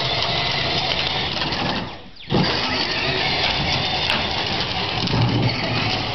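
Battery-powered ride-on toy monster truck driving, its electric motor and gears whirring and its wheels rolling over the ground. It stops briefly about two seconds in, braking automatically when the pedal is let off, then pulls away again.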